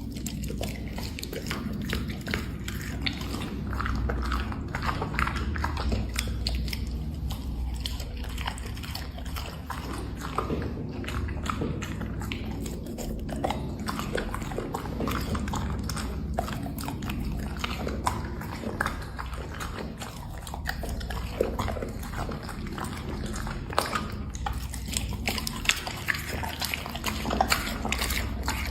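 Black Labrador chewing and crunching snacks, a dense run of irregular crisp crunches and mouth noises, over a steady low rumble.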